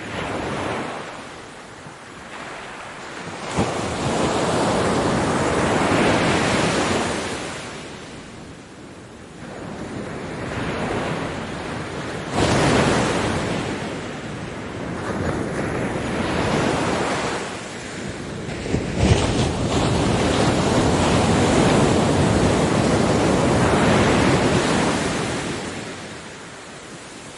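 Ocean waves breaking on a beach, each surge of surf swelling and ebbing over several seconds, about four in all, with sudden rises near 4, 12 and 19 seconds in.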